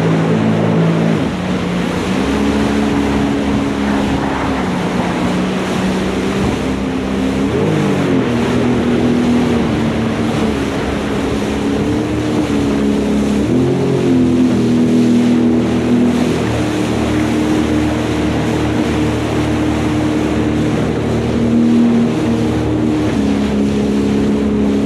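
Jet ski engine running steadily at speed. Its pitch rises and falls a few times with the throttle, over a rush of wind and water noise.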